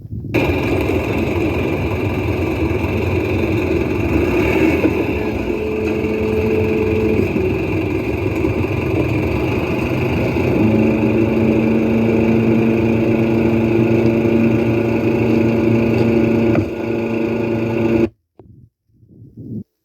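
Construction machinery engine running steadily and loudly, its tone stepping up about ten seconds in, then cutting off abruptly near the end.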